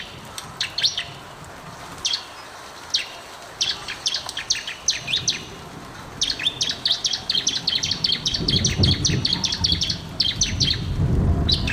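Bar-winged prinia (ciblek) singing in short bursts of rapid high chirps, then a long fast chattering run from about six seconds to nearly ten. A low rumble sits under the song in the second half.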